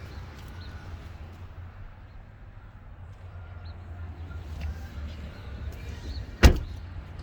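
Steady low rumble with a few faint chirps, and one sharp, loud knock about six and a half seconds in.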